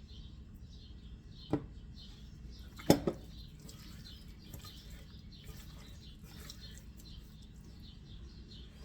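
Small birds chirping steadily in the background, with two sharp knocks, one about one and a half seconds in and a louder double knock about three seconds in.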